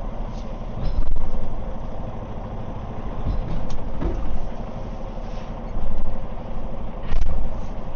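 Semi-truck diesel engine running at low speed as the tractor hooks up to a trailer, the engine note rising briefly a few times, with a sharp knock about seven seconds in.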